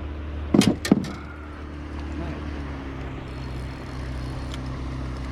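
Mercury 9.8 two-stroke outboard running steadily. Two short, loud noises about a third of a second apart come under a second in.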